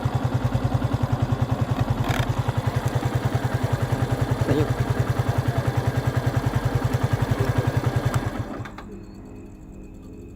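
Motorcycle engine idling with an even, steady beat, then switched off about eight seconds in.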